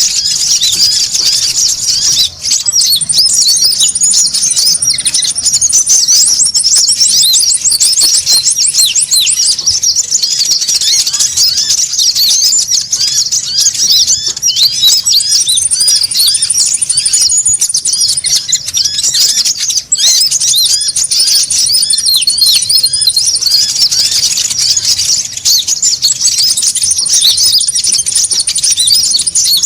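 A noisy crowd of konin birds chattering in dense, rapid, high chirps. Thin, very high trills come in again and again over the top: a bird-lure (pikat) call recording.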